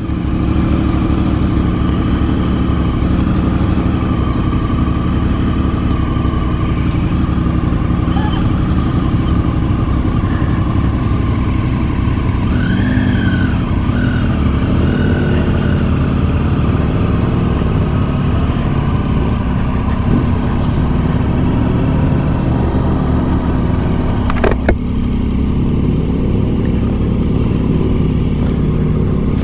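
Triumph Tiger 800 XCx motorcycle's three-cylinder engine running steadily under way. A sharp click comes about 24 seconds in.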